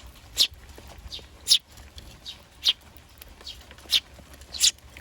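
Eurasian tree sparrows chirping: short, sharp, high chirps, some dropping in pitch, about eight of them at irregular half-second to one-second gaps.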